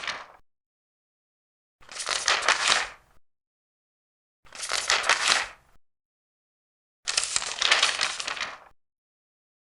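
Large paper pages being turned one at a time: three separate papery rustles, each lasting about a second, roughly two and a half seconds apart, with silence between them.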